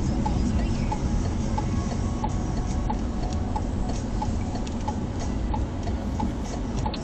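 A car's turn indicator ticking steadily inside the cabin, about one and a half clicks a second, over the low rumble of the engine and road.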